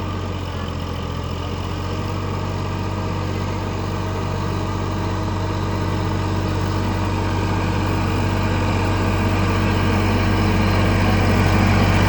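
Sonalika tractor's diesel engine running steadily, with a low hum that grows gradually louder.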